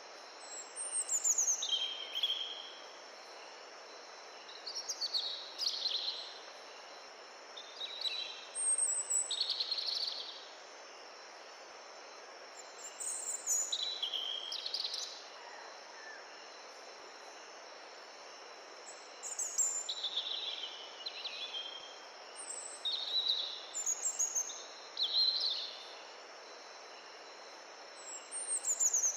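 A songbird singing short phrases every few seconds, each phrase falling in pitch, over the steady rush of a mountain stream.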